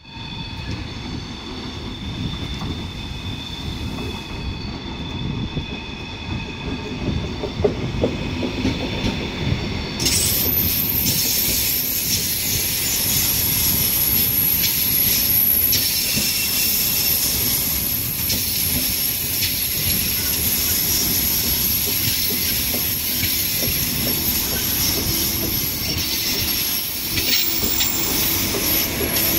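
Frecciarossa 1000 (ETR 1000) high-speed electric train pulling slowly into the station and rolling past close by. The sound grows louder throughout, jumping suddenly about ten seconds in as the cars come alongside, then settles into a steady rolling noise with a high-pitched squeal on top.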